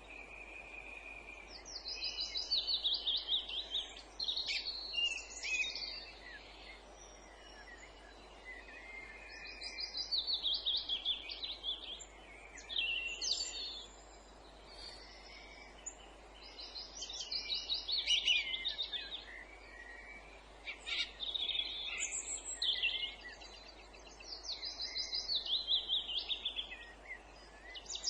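Songbirds singing in woodland. One bird repeats a loud phrase of rapid notes that builds in loudness, four times at about eight-second intervals, with quieter calls from other birds in between.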